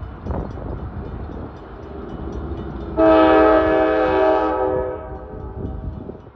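Diesel freight locomotive's air horn sounding one blast of a few chimed notes about three seconds in, over the low rumble and knocking of the moving train.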